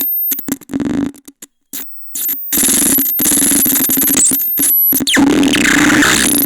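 Electronic noise device putting out harsh, glitchy noise: stuttering bursts broken by abrupt silences for the first couple of seconds, then a dense continuous racket over a steady low hum, with a falling sweep about five seconds in.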